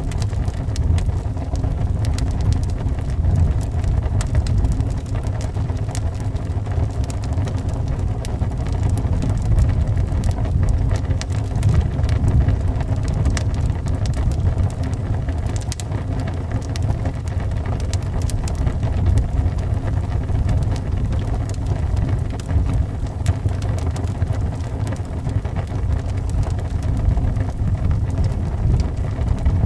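Wood fire crackling with frequent small irregular pops, over a steady low rumble of wind.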